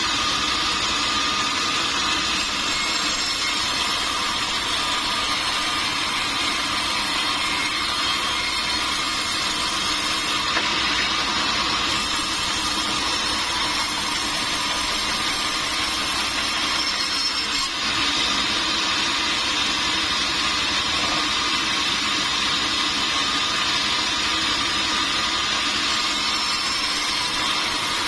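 Sawmill machinery running steadily, a constant mechanical whine and rush with no breaks.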